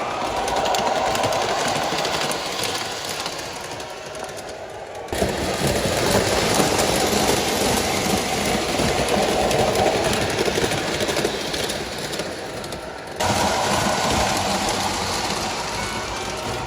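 Electric model trains running on a layout's track: a steady motor-and-wheel rumble, cut abruptly to a new take about five seconds in and again about thirteen seconds in.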